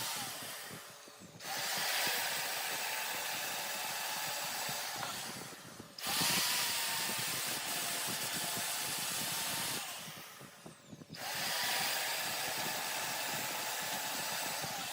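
Power tool noise from wood being cut on a large wood lathe, in three passes of about four to five seconds each. Each pass has a wavering whine and breaks off briefly before the next one starts.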